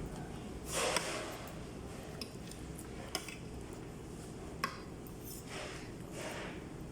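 Eating soup: a spoon clicks against a bowl twice, between short airy slurping noises.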